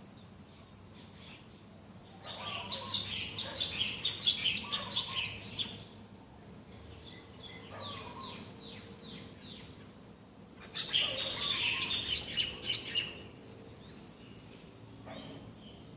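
Birds calling in two loud bursts of rapid high chirping, with a series of short downward-sliding notes between them and fainter calls near the end.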